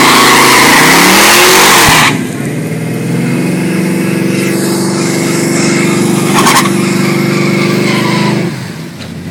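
Chevy 383 cubic-inch V8 truck at wide-open throttle on a quarter-mile drag strip pass: very loud and distorted for the first two seconds as the revs rise, then a steady full-throttle engine note that falls away near the end.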